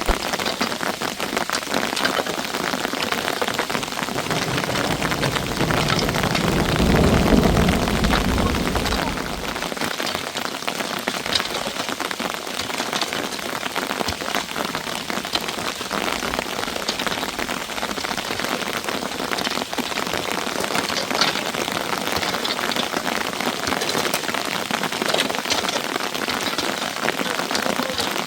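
Heavy storm rain pattering steadily, with many sharp individual ticks of hard drops. A low rumble swells in about four seconds in and fades out about five seconds later.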